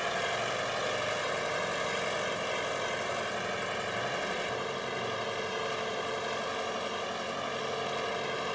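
An engine running steadily at constant speed, a continuous drone with no change in pitch.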